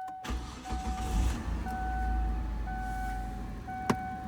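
2002 Kia Sedona's 3.5-litre V6 cranking and catching on a cold start, then running steadily at fast idle. A dashboard warning chime beeps repeatedly over it, and there is a single click near the end. The cold-start growl the owner is chasing is not heard.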